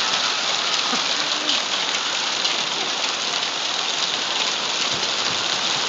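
Heavy rain pouring down steadily, a dense hiss of drops hitting hard surfaces.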